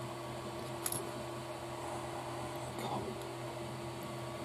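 Steady low background hum, with one light click about a second in and a faint brief rustle near three seconds: small plastic kit parts being handled during assembly.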